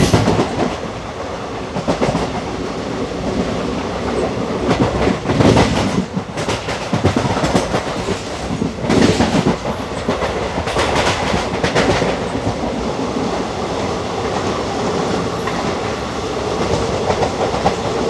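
A moving passenger express train heard from on board: wheels clattering over rail joints over a steady running rumble, with louder surges of clatter a few times.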